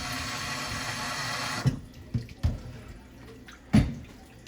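Kitchen tap running into a sink for about two seconds, then shut off, followed by a few sharp knocks, the loudest near the end.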